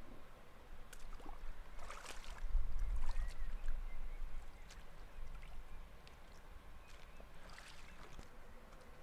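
Canoe paddle strokes in river water: scattered splashes, drips and light knocks on the hull, with a low rumble about two and a half seconds in.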